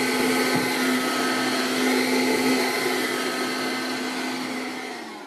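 Vacuum cleaner running steadily with a strong motor hum, then switched off near the end, its motor winding down.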